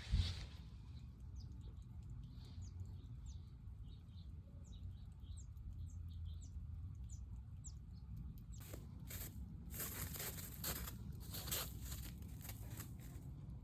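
Small birds chirping faintly, short falling chirps repeated over a low outdoor rumble; from about halfway on, a run of short scratchy noises.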